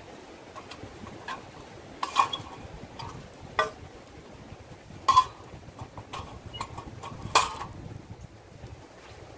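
About four sharp clinks or knocks, each with a short ring, spread over several seconds, with a few fainter ticks between them and a faint steady background.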